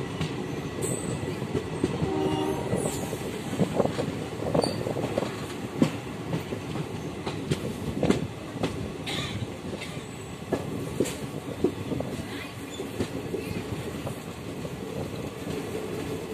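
Passenger train running at speed, heard from an open coach doorway: wheels clattering over the rail joints amid a steady rush of wind and running noise. A brief horn note sounds about two seconds in.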